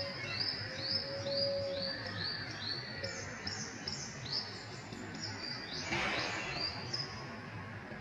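Songbird singing a fast series of short, high, repeated notes, about three a second, that stops about seven seconds in. A lower whistled note sounds briefly about a second in.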